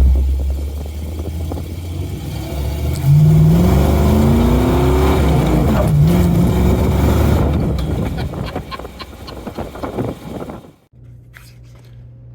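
A motor vehicle's engine running and revving up: its pitch climbs steadily, dips sharply about six seconds in, then climbs again before fading away. Near the end it cuts off abruptly to a quiet, steady hum.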